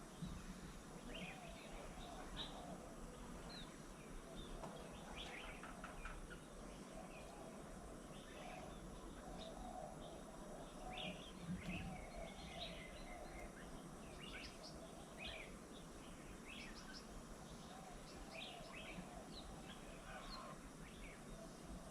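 Wild birds chirping and calling: many short, high chirps, faint over a steady background noise.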